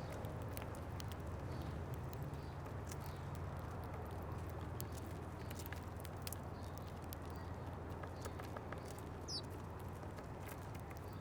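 Birds pecking and hopping on a seed feeder: irregular small taps and clicks, with one short falling chirp about nine seconds in, over a steady low rumble.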